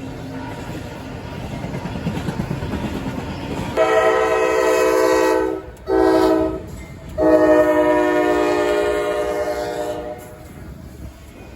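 Train rumbling closer, then a locomotive's multi-chime air horn sounds a long blast, a short one and a long one, the last held about three seconds.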